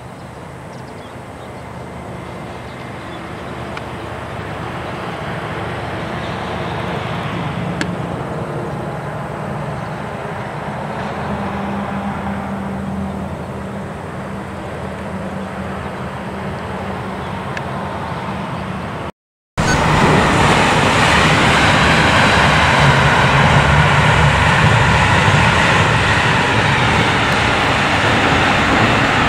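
Train crossing a steel truss railway bridge: a steady rumble and rattle that grows louder over the first several seconds. After a brief dropout about nineteen seconds in, a louder steady running noise of a train on the bridge.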